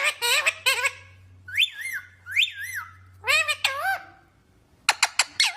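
Pet green parrot calling: a quick run of short gliding notes, two rising-and-falling whistles about a second and a half in, another run of calls, then sharp short chirps near the end.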